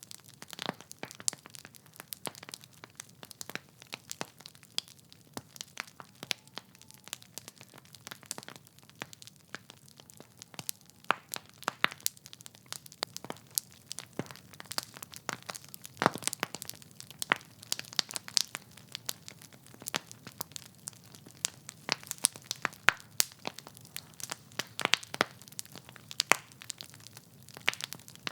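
Wood fire in a fireplace crackling: logs burning with many irregular sharp pops and snaps over a low steady rumble of flame.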